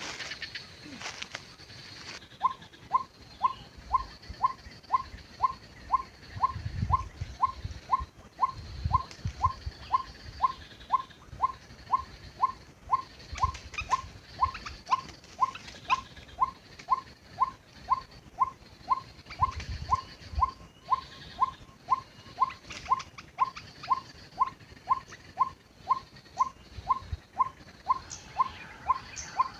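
White-breasted waterhen calling: a short, upward-hooked note repeated steadily about one and a half times a second, starting about two seconds in. A few low rumbles lie under it.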